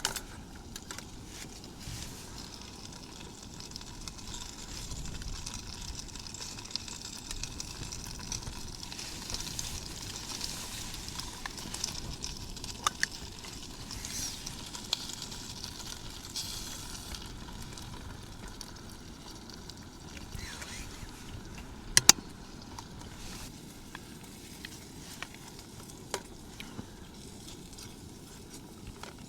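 Food being stirred and scraped with a spoon in a camp cooking pot, over a steady hiss, with scattered small clicks and a sharp double click about two-thirds of the way in.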